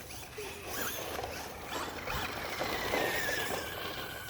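Traxxas Rustler VXL RC truck driving, its brushless motor giving a thin whine that slowly falls in pitch over a scratchy scrabble of tyres on the ground.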